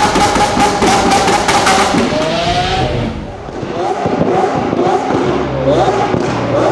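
High-performance car engine revved hard, held high with a crackling exhaust for about two seconds, then falling off about halfway through; after a brief lull it is revved up and down again.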